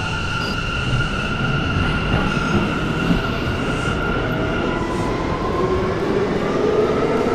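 Inside a subway car as the train pulls away: a steady rumble of the wheels and car with a whine from the traction motors. About five seconds in, a new whine begins to climb in pitch as the train picks up speed.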